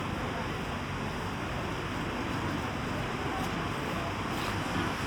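Steady outdoor city street ambience: an even wash of distant traffic-like noise, with no single sound standing out.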